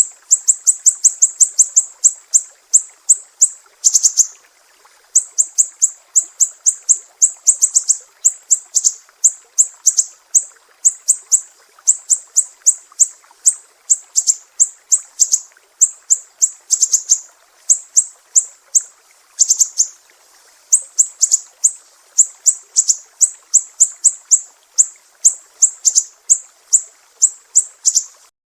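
Sumatran siri-siri songbird singing a fast, high-pitched chirping song: runs of sharp notes that drop quickly in pitch, delivered in bursts broken by short pauses, stopping suddenly near the end.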